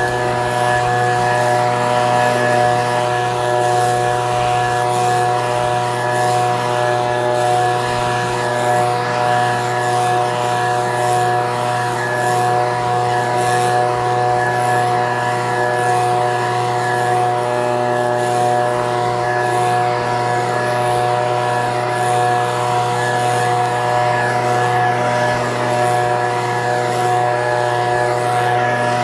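Echo PB-2620 handheld two-stroke leaf blower running at a steady, high engine speed, with a constant pitched drone over the rush of air.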